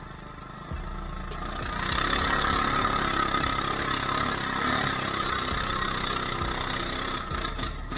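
Mini bike engine running, growing louder about two seconds in.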